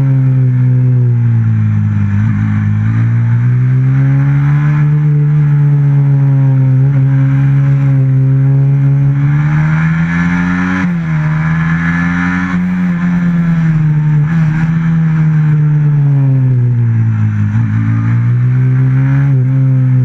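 Onboard sound of a racing motorcycle's stock FXR150 engine at full race pace: the engine note climbs and falls as it is ridden through corners and straights, dipping low near the start and again around two thirds of the way through. About halfway through the pitch drops suddenly, as on a gear change.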